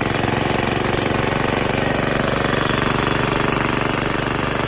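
Old Briggs & Stratton engine on a reel mower running steadily with a fast, even firing beat, its drive still engaged.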